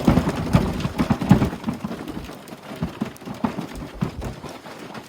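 Footsteps crunching through deep snow: soft irregular thuds, quick at first, then about two a second.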